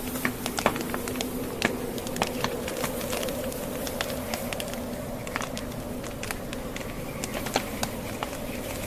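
Wood fire crackling with frequent irregular sharp pops, over the steady rush of a blizzard wind with a low wavering howl.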